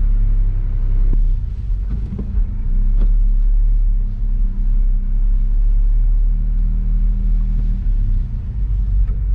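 Honda S660's small turbocharged three-cylinder engine running with a steady low rumble, with a few sharp clicks in the first three seconds.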